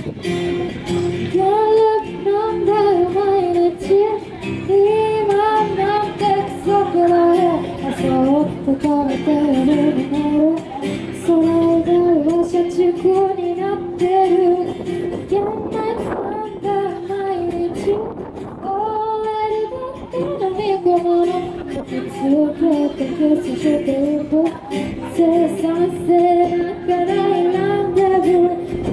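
A woman singing live with strummed acoustic guitar accompaniment: a melodic vocal line over steady chords.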